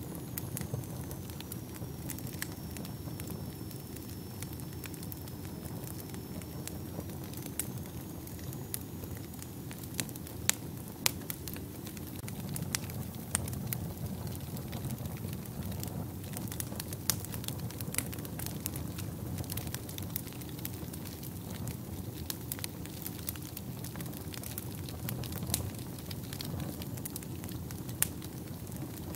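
Wood fire burning in a fireplace: a steady low rumble of flames with irregular crackles and sharp pops of burning logs, a few pops louder than the rest.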